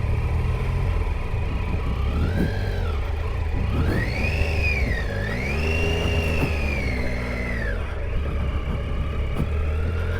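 Triumph Tiger 800 XCa's three-cylinder engine under way, its pitch rising and falling several times as the throttle is opened and closed, over a steady low rumble.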